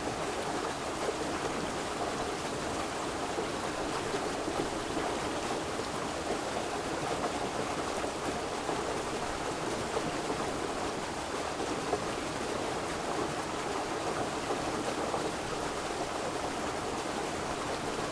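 River water flowing, a steady, even rushing without breaks or distinct splashes.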